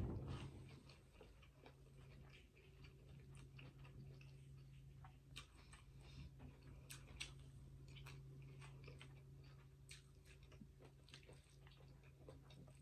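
Quiet eating: soft chewing and small irregular clicks and taps as a plastic fork works through food on a plate, over a low steady hum. One thump right at the start.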